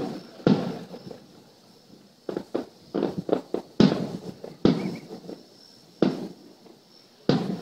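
Aerial fireworks shells bursting: a string of sharp bangs, spaced about a second apart with a quick run of smaller cracks around the middle, each trailing off in an echo.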